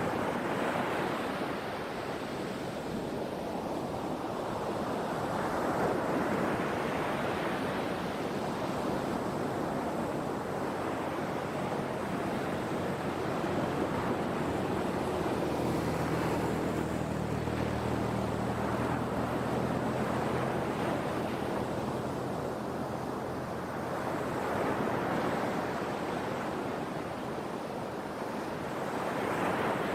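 Sea waves breaking and washing ashore, the surf swelling and easing every several seconds. A faint low hum sits under it in the middle.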